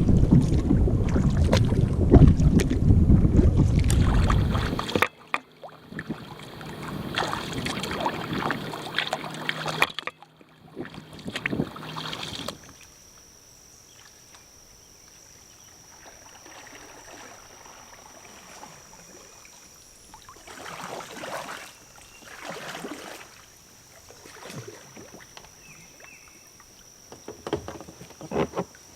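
Kayak paddle strokes in the water with wind rumbling on the microphone for the first few seconds, then, after several abrupt cuts, softer paddle splashes every couple of seconds under a steady high insect buzz.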